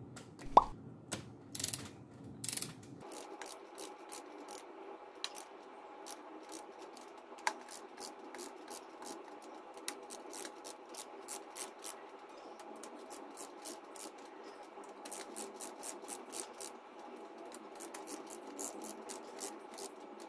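Ratchet wrench clicking in quick runs as the supercharger's mounting nuts are turned down, with one sharp metal clink about half a second in.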